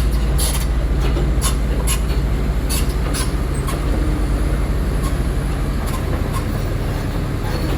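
Heavy construction machine's diesel engine running steadily, with a run of sharp knocks over the first three seconds.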